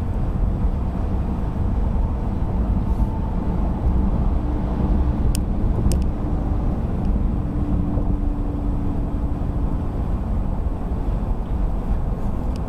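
Steady low road and engine rumble of a car being driven, with a faint steady hum through the middle and two sharp clicks about five and six seconds in.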